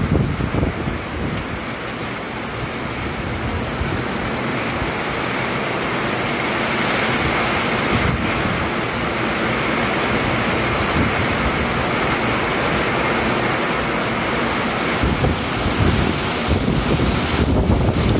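Heavy rain pouring in a strong thunderstorm, a steady hiss, with wind gusts buffeting the microphone near the start and again over the last few seconds.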